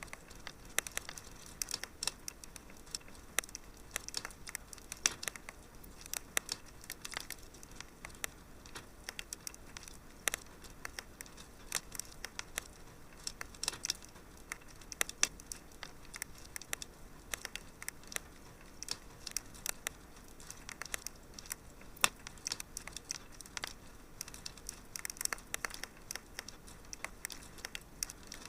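Fireplace fire crackling: many irregular sharp pops and snaps over a soft steady hiss, with a few louder pops here and there.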